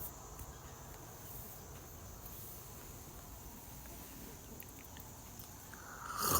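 Quiet outdoor background: a low rumble and a faint steady high hiss, then a loud rushing noise that swells up in the last half second.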